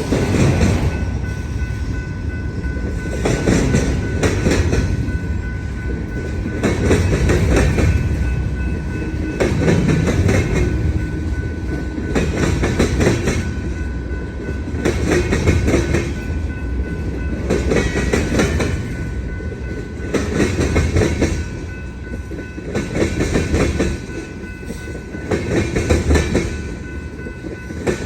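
Freight cars of a long manifest train rolling over a railroad diamond crossing. The wheels clatter in groups about every two and a half to three seconds, as each car's trucks hit the crossing, over a steady rumble. A faint steady ringing tone from the wheels runs underneath.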